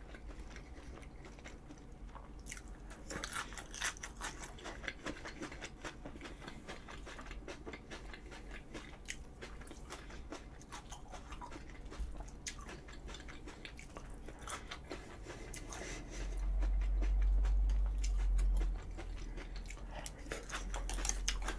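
Close-up chewing and crunching of a mouthful of food, with many small wet clicks from the mouth. A louder low rumble comes in about two-thirds of the way through and lasts a few seconds.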